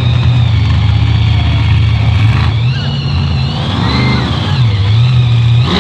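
A vehicle engine running steadily with a low drone, swelling briefly in pitch and falling back about four seconds in.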